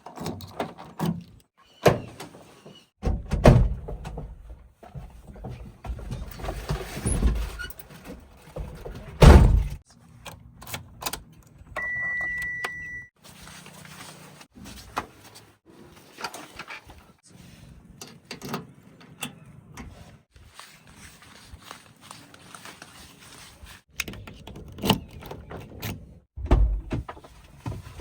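Earth-moving machinery at work: a string of heavy thuds and clanks over a low engine rumble, the loudest thuds a few seconds in and just before ten seconds. A single high beep lasts about a second near the middle, and the sound breaks off abruptly several times.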